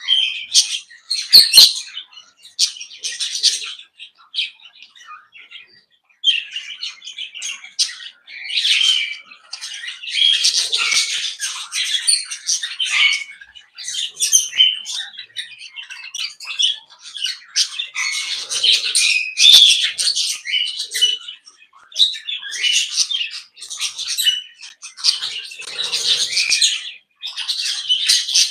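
A mixed flock of small aviary parrots chirping, chattering and squawking together in busy bursts, with short lulls between them.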